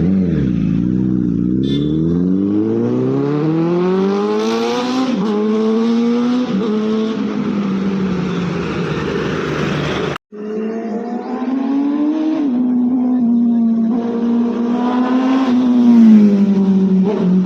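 Superbike engine accelerating hard, its pitch climbing through the revs and dropping back at each upshift, then pulling again. The sound cuts out completely for a moment about ten seconds in, then the engine resumes, revving up near the end before easing off.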